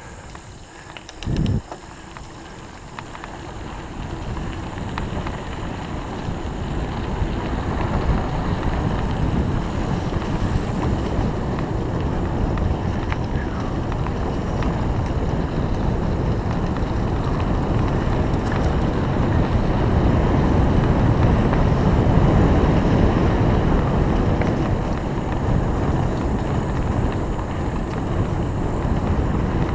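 Wind rushing over the microphone of a camera riding along on a bicycle, growing louder over the first eight seconds or so as the bike gathers speed, then steady. A short low thump about a second and a half in.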